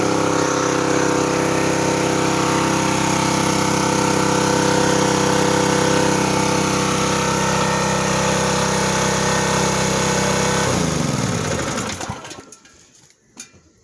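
Westinghouse 3200 psi gas pressure washer engine running steadily, then shut off near the end, its pitch sliding down as it winds to a stop.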